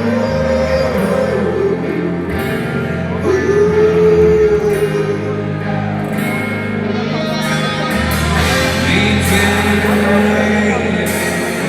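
Rock music: a slow band passage with guitar and a sung, drawn-out vocal line.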